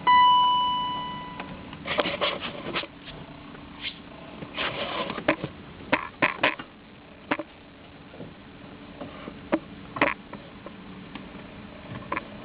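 An electronic beep with a ringing tail fades out in the first second and a half. Then come scattered clicks and rustling handling noises, with no engine running.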